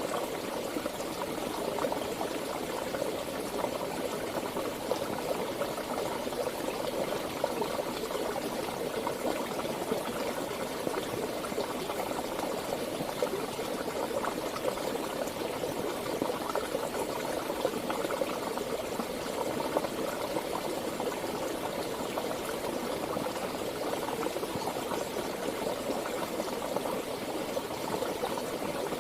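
Water in a stream flowing steadily.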